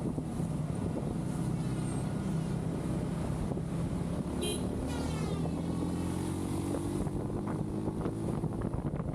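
Motorcycle engine running under way, with wind rushing over the camera microphone. About halfway through, the engine note climbs slowly as the bike accelerates.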